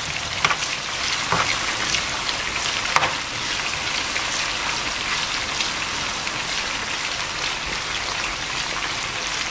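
Sliced onions sizzling in hot vegetable oil in a frying pan, a steady crackling hiss, while a spoon stirs them, with a few light clicks against the pan in the first three seconds.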